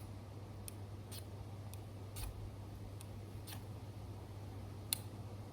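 About a dozen short, sharp clicks or scrapes at uneven intervals, over a steady low hum.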